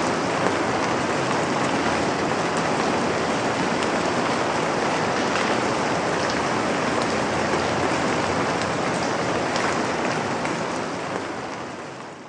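Steady rain: a dense, even hiss with scattered drops ticking, fading out near the end.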